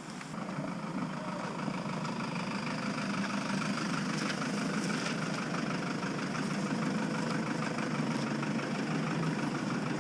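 A motor engine running steadily, growing slowly louder.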